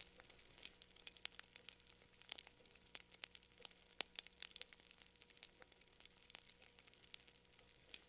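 Fire crackling faintly: irregular sharp pops and snaps, several a second, over a soft steady hiss.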